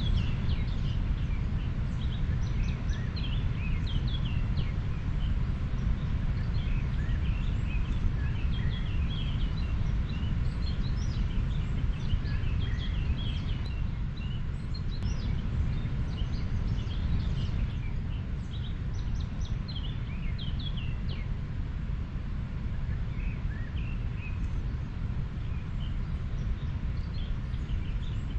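River water flowing with a steady low rush, with many small birds chirping in short calls throughout.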